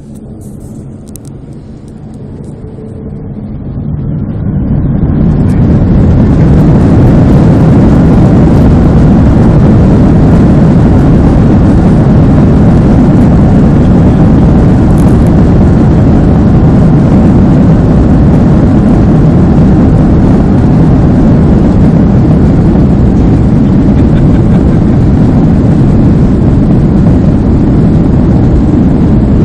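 Airliner engines spooling up to takeoff power, swelling over a few seconds into a loud, steady roar for the takeoff run, heard from inside the cabin at a window seat.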